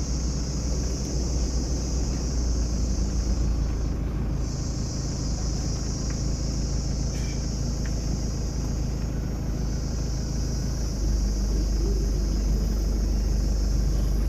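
Low rumble of a car's engine and road noise, heard from inside the vehicle, growing louder about eleven seconds in. Over it runs a steady high-pitched buzz of forest insects that breaks off briefly a couple of times.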